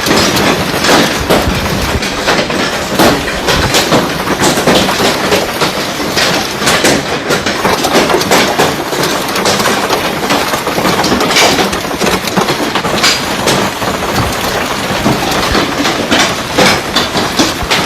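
Heavy hailstones pelting hard surfaces in a loud, dense, unbroken clatter of countless impacts.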